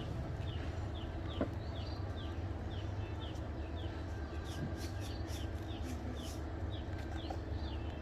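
A bird chirping over and over, short high falling chirps about two or three a second, over a steady low rumble.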